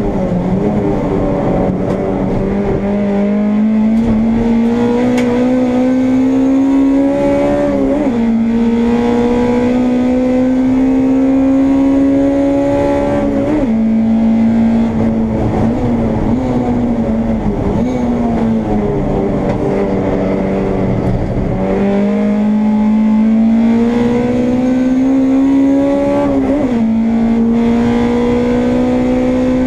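Honda Integra race car's four-cylinder engine under hard acceleration, heard onboard: the pitch climbs steadily and drops briefly at upshifts about 8 and 13 seconds in. It dips and wavers lower as the car brakes and downshifts, then climbs again with another upshift near the end.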